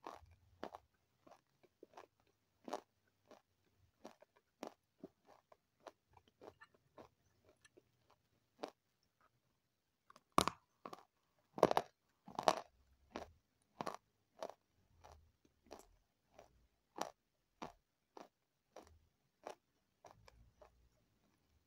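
A person chewing crunchy food close to the microphone: a run of crisp, separate crunches about one or two a second, with a few louder bites about halfway through.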